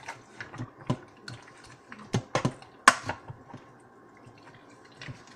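A spoon stirring food in a pressure cooker's pot, with irregular clicks and knocks against the pot, the sharpest knock about three seconds in.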